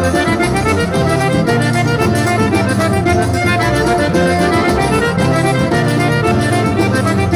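Instrumental forró music led by accordion, with a steady dance rhythm.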